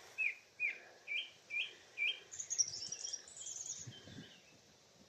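Song thrush singing: one short hooked whistle repeated about eight times in quick succession, then a high twittering phrase about halfway through. Repeating a phrase several times before switching is typical of the species.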